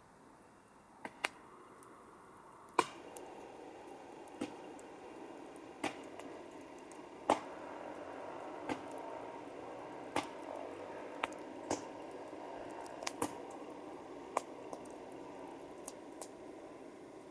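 Campfire burning: wood crackling with irregular sharp pops, roughly one a second, over a hiss that swells about three seconds in.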